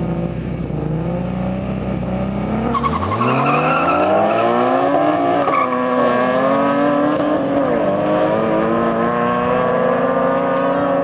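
Tuned BMW straight-six engines running at a steady hum, then about three seconds in the revs climb hard under full acceleration, with the pitch dropping back and rising again at gear changes.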